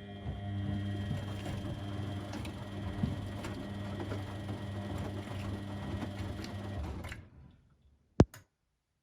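A laundry machine's motor running with a steady hum and whirr, cutting off about seven seconds in, followed shortly after by a single sharp click.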